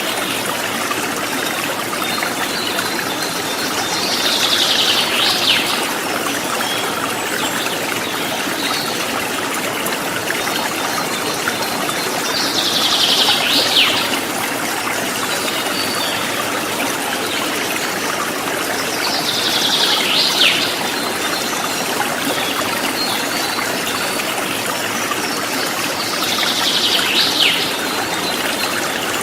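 River water flowing over rocks: a steady rushing. Four times, about every seven to eight seconds, a short high call of about a second and a half sounds over it, each ending in a sharp drop.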